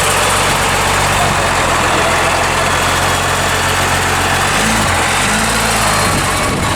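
Car engine idling steadily, a low even hum under a constant hiss.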